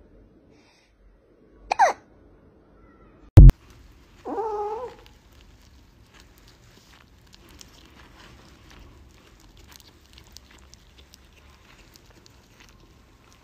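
A cat gives a short, falling cry, then a sudden loud knock lands about three and a half seconds in, and right after it a cat meows for most of a second. Faint light rustling and ticks follow.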